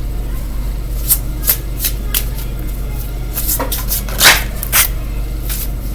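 Tarot cards being handled: a string of short, sharp card snaps and slides, the longest and loudest just after four seconds in, over a steady low hum.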